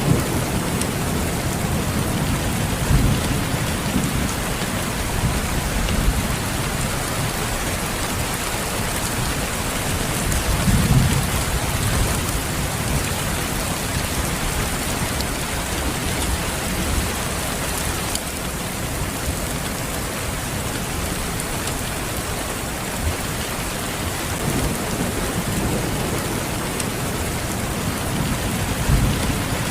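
Steady heavy rainfall, an even hiss of drops hitting surfaces, with brief low rumbles swelling up a few times.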